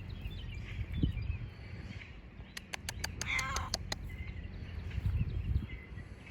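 Outdoor ambience with faint bird chirps over a low rumble. A thump comes about a second in, and about three seconds in there is a quick run of clicks with a short wavering call.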